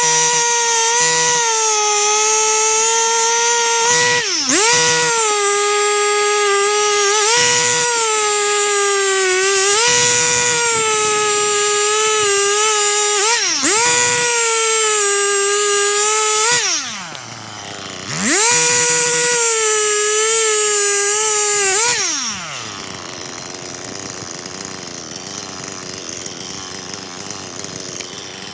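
Stihl MS 261 C-M two-stroke chainsaw held at high revs while felling a tree, with brief dips in engine speed every few seconds. About 16 s in it drops to idle, revs back up for a few seconds, then falls back to a quieter idle near 22 s.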